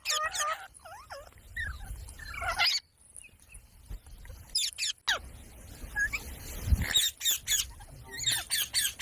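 Indian ringneck parakeets calling: short, sharp, high screeching calls in quick runs of several, with a few sliding calls early on and the densest runs in the middle and near the end.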